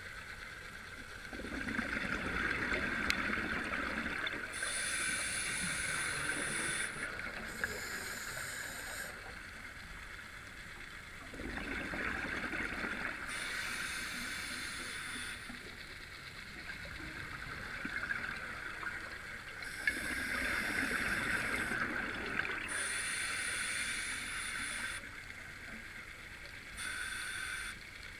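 Scuba diver breathing through an open-circuit regulator underwater, three full breaths. Each breath is a rough, bubbling exhalation of a few seconds, followed by a hissing inhalation through the demand valve.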